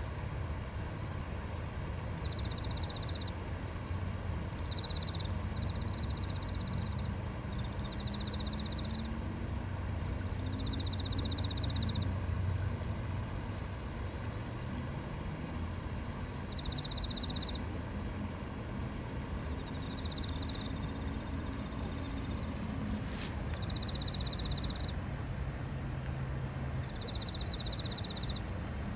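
Steady babbling of a river. Short high trills, about a second long, repeat every few seconds from a small creature such as a frog or insect. A low drone slides up and down in pitch through the middle of the stretch.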